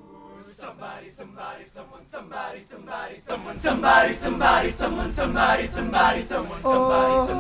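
Male a cappella group singing a wordless intro: voices pulse in a steady rhythm of about two and a half notes a second, then grow louder and fuller with a bass line joining about three and a half seconds in, and settle into held chords near the end.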